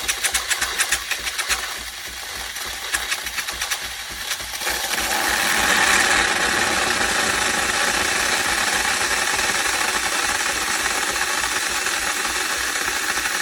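Philips 3200 Series LatteGo fully automatic coffee machine making a cappuccino: its pump pulses rhythmically for the first four seconds or so, then a loud, steady hiss of steam takes over.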